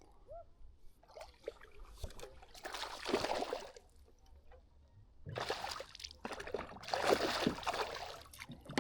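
Water splashing and sloshing in three bursts beside a kayak, from a hooked largemouth bass thrashing at the surface during the fight, shortly before it shakes off.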